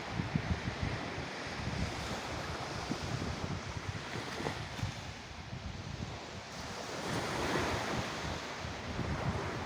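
Sea surf washing in a steady rush that eases and swells again, with wind buffeting the microphone.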